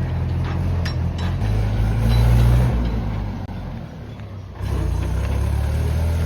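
Heavy diesel machinery engine running steadily. Its note shifts after about a second and a half, then it fades down for about a second before coming back suddenly, as if cut.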